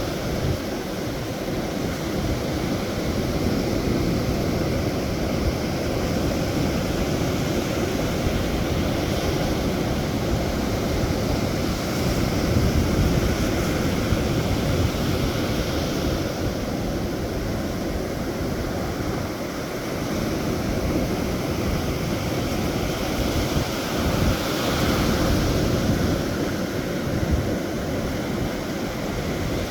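Sea waves washing in on the shore under steady wind, with wind buffeting the microphone as a low rumble. The surf swells louder about twelve seconds in and again near twenty-five seconds.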